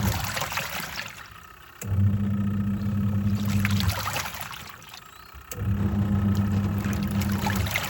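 Twin-tub washing machine's wash tub agitating, water sloshing and churning. The motor hums for about two seconds, stops for under two seconds, then starts again, in a repeating on-and-off wash stroke.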